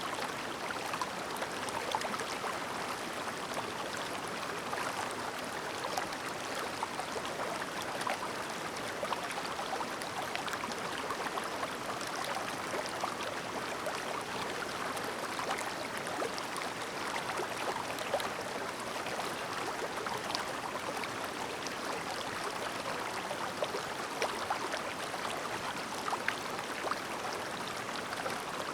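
Shallow, clear mountain stream babbling over stones: a steady burble of running water with many small splashes and trickles.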